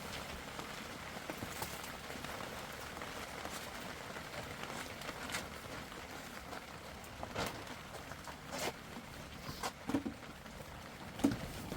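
Steady rain hiss, with scattered light knocks and clicks, a few sharper ones near the end.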